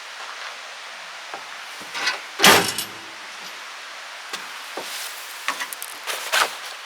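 A vehicle door shutting with one heavy thud about two and a half seconds in, a short rattle just before it, and a few light clicks and knocks afterwards.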